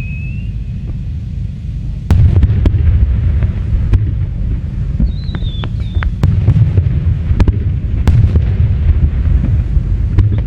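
Aerial fireworks display: a falling whistle fades out at the start, then from about two seconds in a heavy low rumble of shell bursts with many sharp cracks, and a short whistle midway.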